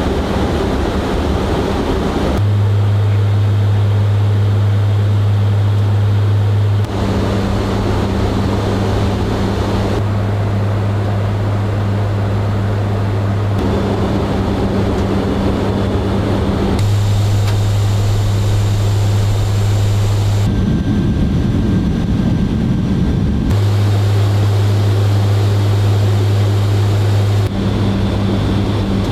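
Lockheed C-130J Super Hercules turboprop engines and six-blade propellers running with a steady, loud low drone. The tone and noise change abruptly every few seconds.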